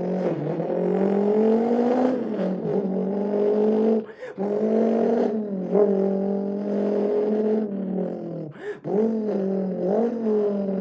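A man imitating a Toyota AE86 Trueno's engine with his mouth. A held buzzing hum climbs in pitch and drops back several times, like revs rising through the gears. The hum breaks off briefly about four and nine seconds in.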